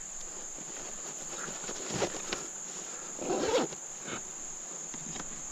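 Insects droning with a steady high-pitched buzz, with a few soft knocks and a short muffled sound about halfway through.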